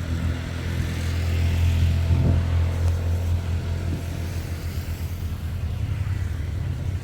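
A motor vehicle's engine running close by with a low hum, getting louder to a peak about two seconds in and then holding steady.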